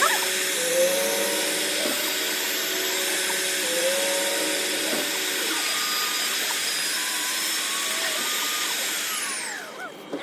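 ReSharp automatic knife-sharpening machine running with a steady, loud whir, then its motor spins down with a falling whine near the end.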